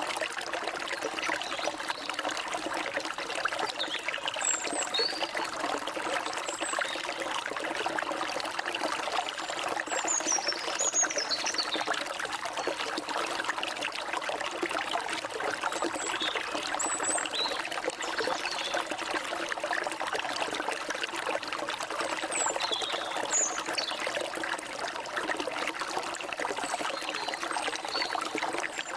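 Forest stream flowing and trickling steadily, with short high bird chirps and whistles scattered over it.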